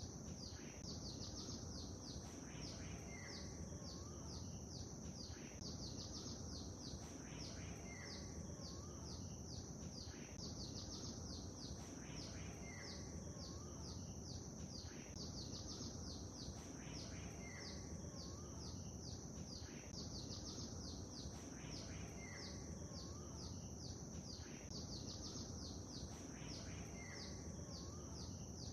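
Small birds chirping in quick, high repeated notes over a steady low wash of lake water. The same short call recurs every three to four seconds.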